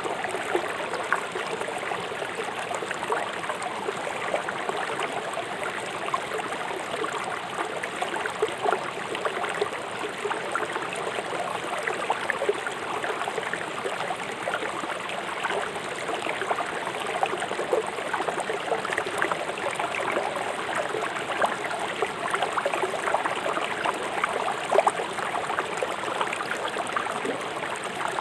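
Fast-flowing river rushing and splashing over river stones, a steady wash of water with many small splashes and gurgles.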